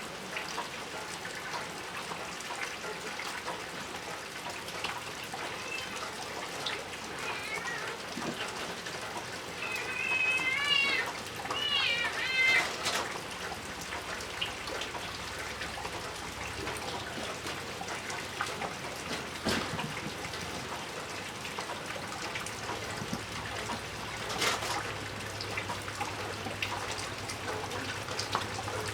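Water running steadily, with a few short, wavering, high-pitched animal calls about ten to thirteen seconds in, and scattered clicks.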